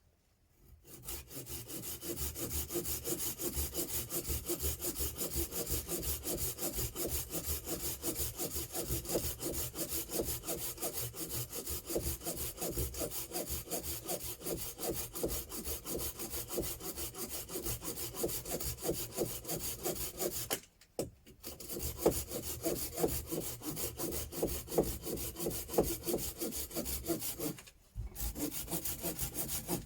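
Hand saw cutting through wood in quick, steady back-and-forth strokes, stopping briefly twice in the latter part.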